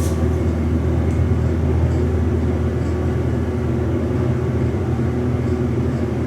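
Steady low rumble of a subway station's background noise, even throughout.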